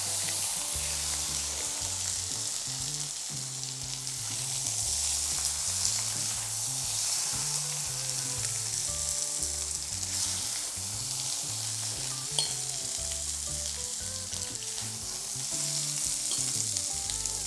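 Curry-leaf chicken fry sizzling steadily in coconut oil in the pan while it is stirred and scooped out, with one sharp clink of the utensil about twelve seconds in.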